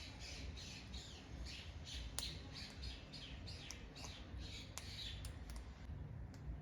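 Faint bird chirping: a steady series of short, high, downward-sliding chirps, about three a second, that stops about five seconds in. A few sharp clicks sound among the chirps.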